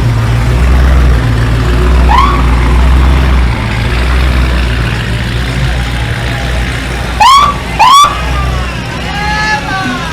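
Muscle car engines rumbling low and steady as the cars drive slowly past. Near the end come two short, loud whoops that rise and fall in pitch, about half a second apart.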